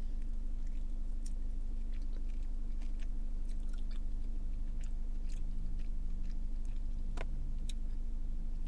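Close-up chewing of a saucy chicken wing dipped in ranch, bitten into and chewed with small wet mouth clicks, over a steady low hum.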